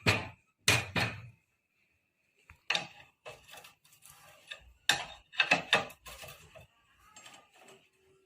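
Metal parts and hand tools clanking and knocking against each other as the motorcycle is worked on: a string of sharp, uneven clacks, loudest in clusters near the start and about halfway through.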